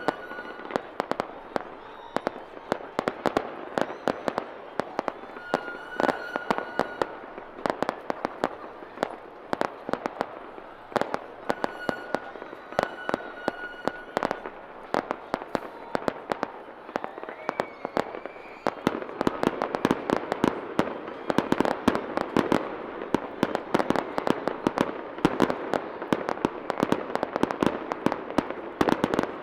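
Fireworks display heard from a few hundred metres: a rapid, non-stop run of shell bursts, sharp bangs over continuous crackling, growing denser about two-thirds of the way through.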